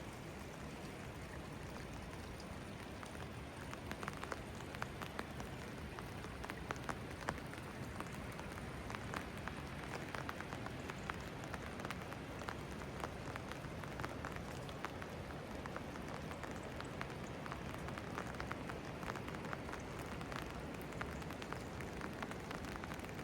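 Steady rainfall, with many sharp individual drops hitting close by, growing more frequent about four seconds in.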